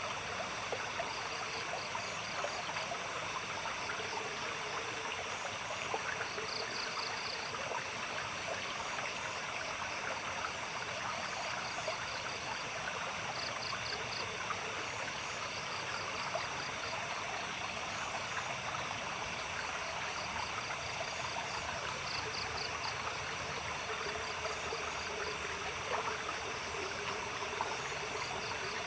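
Stream water trickling and splashing steadily, with night animals calling over it: a steady high chirring and short pulsed chirps that repeat every few seconds.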